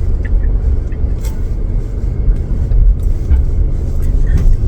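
Car engine idling, a steady low rumble heard from inside the cabin, with a few faint ticks.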